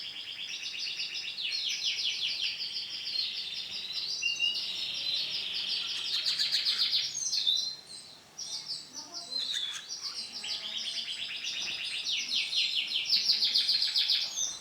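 Canary singing in long runs of rapid trilled notes. The song breaks off about eight seconds in and starts again a second or two later.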